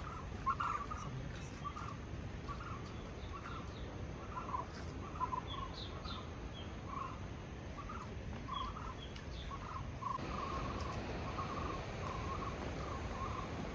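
Birds chirping in short calls that repeat about twice a second, over a steady background hiss that grows slightly louder about ten seconds in.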